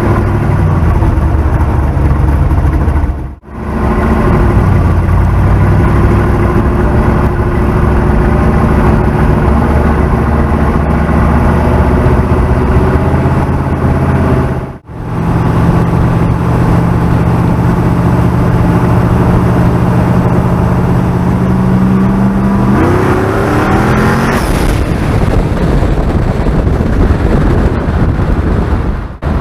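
Car engine running steadily at cruising speed, then revving up with a rising pitch about 23 seconds in.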